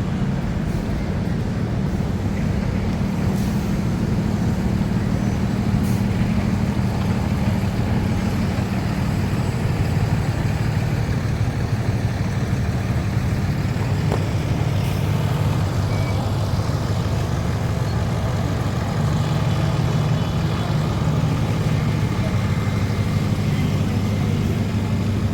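Steady city traffic: a continuous low rumble of vehicle engines, including heavy vehicles such as trucks and buses.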